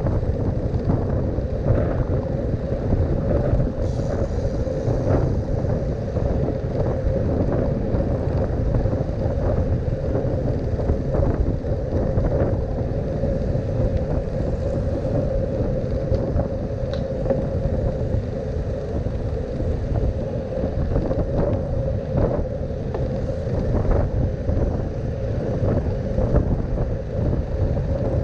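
Riding noise picked up by a camera on a moving bicycle: low road rumble and wind buffeting the microphone, with a constant hum and many small knocks and rattles from bumps in the road.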